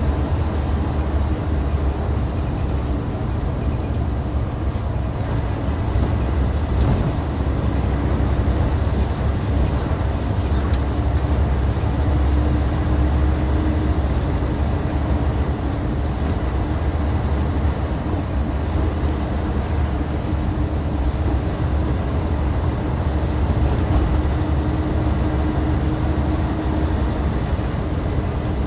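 Hyundai D6CC Powertec 380 straight-six diesel of a Hyundai Universe coach running steadily with the bus under way, a deep low rumble with road noise, and a few faint clicks about ten seconds in.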